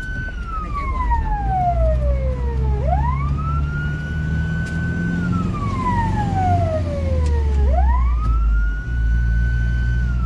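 Fire engine siren wailing in slow cycles: each cycle rises quickly to a high note, holds it about two seconds, then slides slowly down, repeating about every five seconds. Under it runs the low, steady rumble of the truck's engine.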